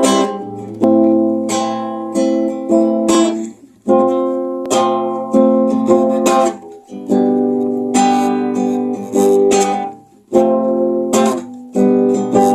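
Acoustic guitar strumming chords in an instrumental interlude, each chord struck and left to ring.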